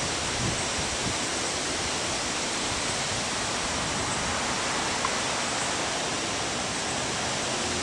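Heavy rain and strong wind of a derecho thunderstorm, a steady, even rush of noise.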